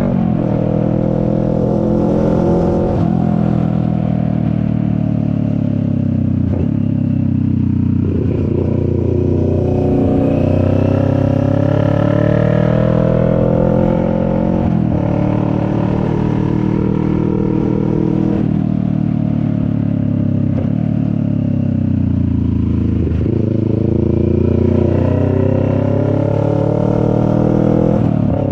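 CFMoto 400NK motorcycle's 400 cc parallel-twin engine accelerating through the gears: the engine note climbs in pitch, drops at each gear change, then climbs again, several times over.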